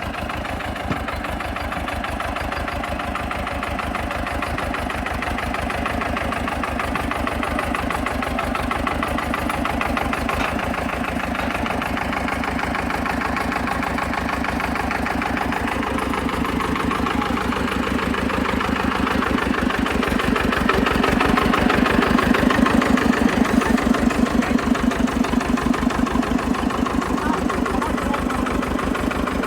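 Swaraj 724 tractor's diesel engine running at a steady, low-speed chug with evenly spaced firing pulses. It grows gradually louder to a peak about three-quarters of the way through, then eases slightly.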